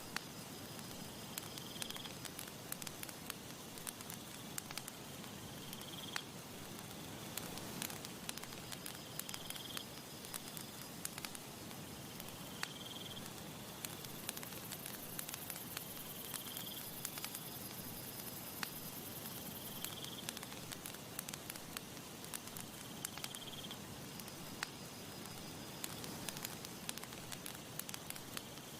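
Campfire crackling with irregular sharp pops and snaps over a soft steady rush of breeze. A short high chirp repeats about every two seconds, and a thin high buzz joins it midway through for several seconds.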